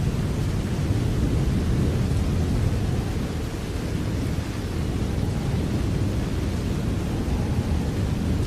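Steady rain, an even wash of noise weighted toward a deep, continuous rumble, with no single drops or thunderclaps standing out.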